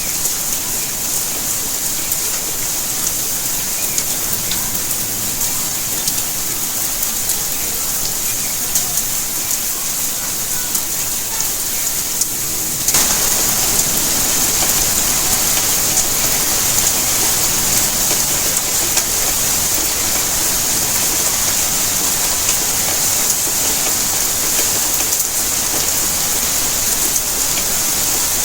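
Steady rainfall pattering on surfaces. About halfway through it turns suddenly louder and fuller.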